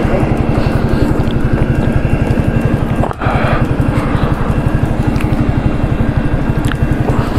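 Hero Splendor 100cc single-cylinder four-stroke motorcycle engine idling steadily, with an even low firing pulse.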